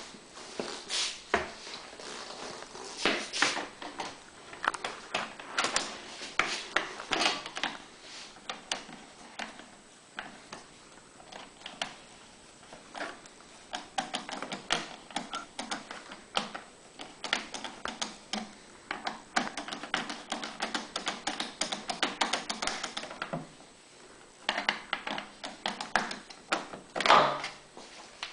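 Irregular clicks, taps and knocks of the access panels and fasteners being handled and taken off a Champion 3100 watt generator's cabinet, with a louder knock near the end.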